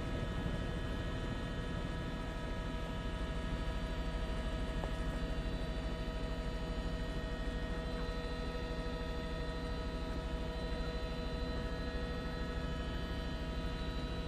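Helicopter cabin noise: a steady drone and hum with several constant whining tones over it, unchanging throughout.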